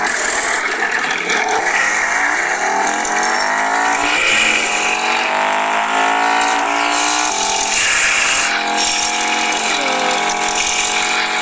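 Honda Integra Type R's K20A 2.0-litre four-cylinder VTEC engine under hard acceleration, the revs climbing steadily through a gear, then falling as it upshifts about four seconds in and again about seven seconds in, before climbing once more.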